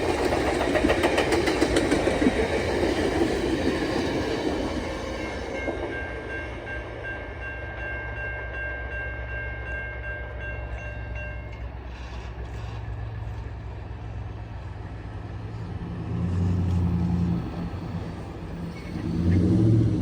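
Passenger train cars rolling past with the clickety-clack of wheels over rail joints, fading about five seconds in. A steady high-pitched tone follows for several seconds, then a low rumble.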